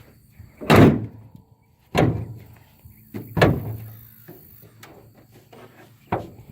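An old car's hood being slammed shut three times, each a loud metal bang with a short ringing tail, followed by a lighter knock near the end.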